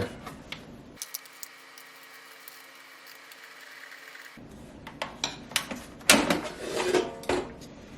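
Small metal and plastic parts of an air fryer being handled and fitted back into place: scattered sharp clicks and light clattering, busier and louder in the second half.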